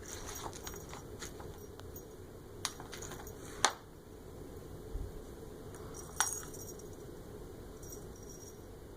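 Scattered light clicks and metallic clinks over a steady low hiss, the two sharpest about three and a half and six seconds in.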